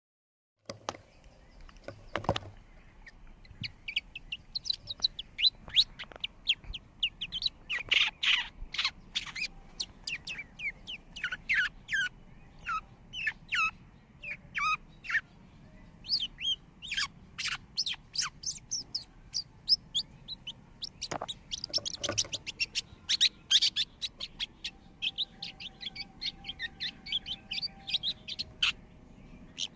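Long-tailed shrike calling: a rapid, irregular series of short, sharp chirps, some louder and harsher than others, starting about a second in and going on throughout.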